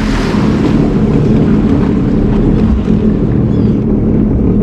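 Sea-Doo personal watercraft engine running steadily at low speed, with wind noise on the microphone.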